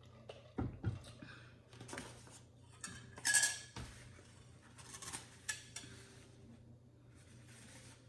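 Utensils clinking and scraping against a bowl and dishes as noodles are handled, with two low thumps just under a second in and a sharp ringing clink about three and a half seconds in.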